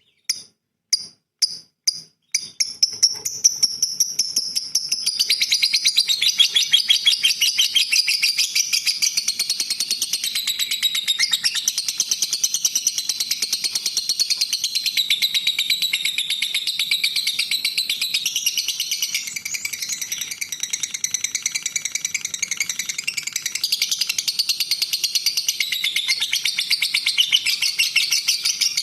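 Small songbird singing: a few separate chirps, then from about two seconds in a fast, unbroken run of high, rapid trills and chatter that changes pattern a couple of times.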